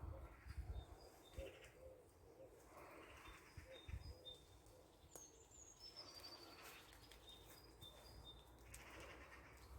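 Faint bird chirps and short whistled calls, with a falling whistle about five seconds in, over low rumbles and a brief low thump about four seconds in.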